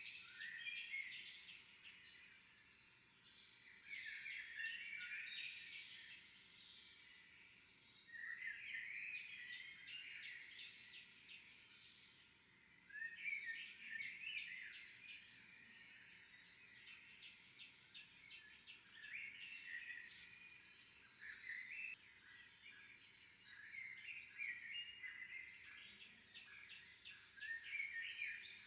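Small songbirds singing in repeated bouts of high, rapid phrases, some opening with a falling whistle and running into fast trills. There is no pigeon cooing.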